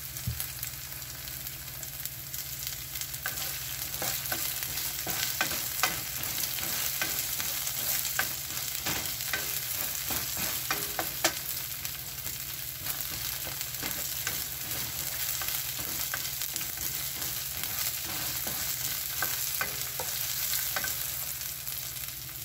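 Diced onion and garlic sizzling steadily in hot oil in a nonstick wok, with scattered short clicks and scrapes as a spatula stirs them.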